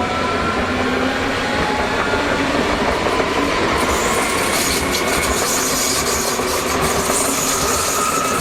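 A train running along the track, a steady rail rumble with a faint whine that rises slowly. From about four seconds in, a high hiss joins.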